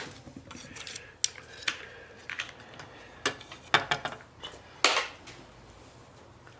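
Irregular light metallic clicks and clinks of small metal parts or tools being handled on a workbench, with the loudest clink about five seconds in.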